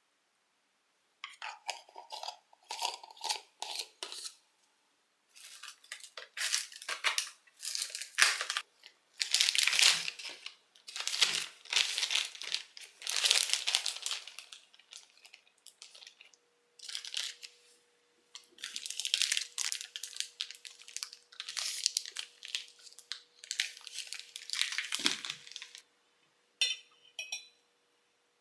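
Crinkling, rustling handling sounds in a series of short separate bursts, with a faint steady tone in the second half.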